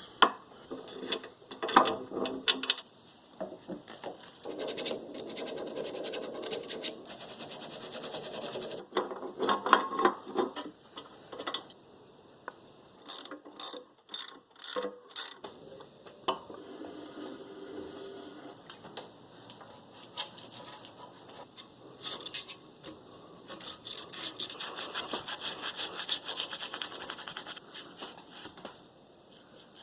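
Hand tools working on the Powermatic table saw's metal parts: bursts of fast ratchet-wrench clicking, stretches of rubbing and scraping, and occasional sharp knocks.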